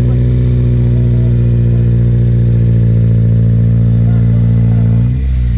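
Off-road 4x4's engine held at steady revs while pulling under load, the revs falling off briefly about five seconds in.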